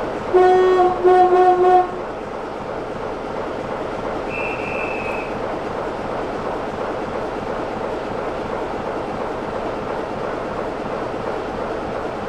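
A locomotive sounds two short blasts on its horn, the second right after the first, then a train runs by with a steady running noise. A brief high-pitched tone sounds about four seconds in.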